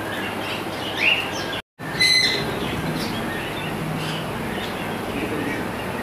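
Caged birds chirping now and then over a steady background noise. There is a short rising chirp about a second in, and the sound cuts out for a moment just before a whistled chirp at about two seconds.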